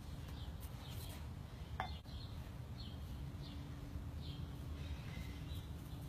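Birds chirping in short, scattered calls over a low steady hum and faint background rumble, with one louder short sound falling in pitch a little under two seconds in.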